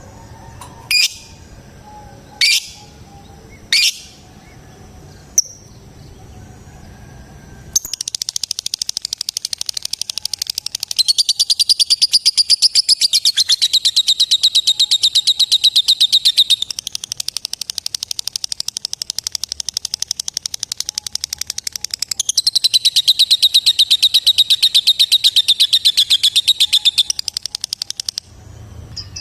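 Female lovebird calling: a few sharp single shrieks, then a long, very rapid chattering trill of fast repeated high notes (ngekek) lasting about twenty seconds, louder in two stretches and breaking off just before the end.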